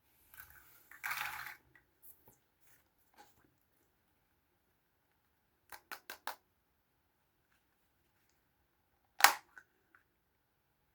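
Small plastic Kinder Surprise toys being handled: a brief rustle near the start, a quick run of four light clicks in the middle, and one sharp plastic snap later on, with quiet in between.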